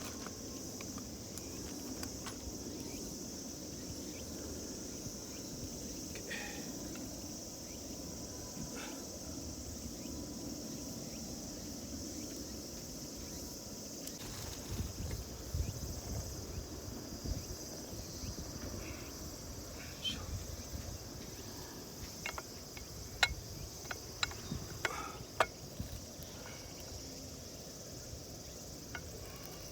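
Steady high-pitched trilling of insects in the grass. In the second half it is joined by some low rumbling and a scattering of sharp clicks and knocks.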